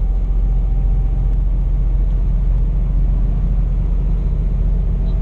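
Scania P420 truck's engine and road noise heard inside the cab while driving: a steady low rumble.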